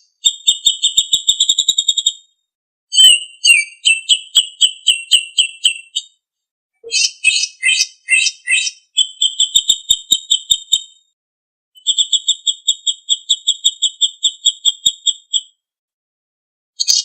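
A songbird singing rapid, high-pitched trills of about ten notes a second, in phrases of one to three seconds with short silent gaps between. This is birdsong master recording used to teach caged songbirds to sing.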